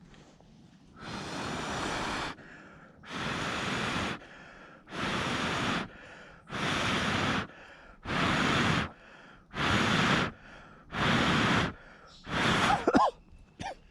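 A person blowing hard on glowing embers in seven long breaths about a second and a half apart, to get damp firewood to catch. A couple of short squeaky calls come near the end.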